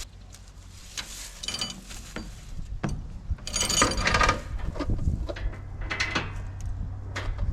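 Irregular metal clanks and rattles of rigging being handled, over a tractor engine idling low.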